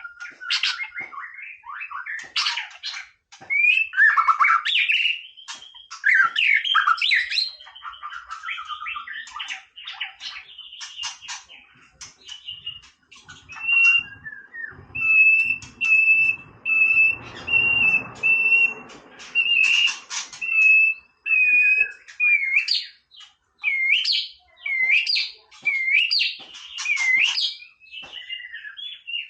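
White-rumped shama singing: a run of varied warbled and whistled phrases, then a string of steady repeated whistled notes all on one pitch, then a series of quick hooked, upswept notes near the end.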